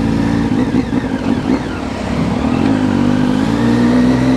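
Triumph Street Triple's three-cylinder engine running under way, heard from the rider's position with wind noise; its note drops about halfway through and then climbs again as the throttle is opened.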